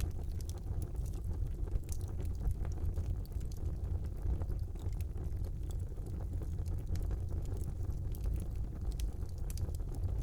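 Wood fire burning in a brick fireplace: a steady low rumble of flame with irregular sharp crackles and pops from the burning logs.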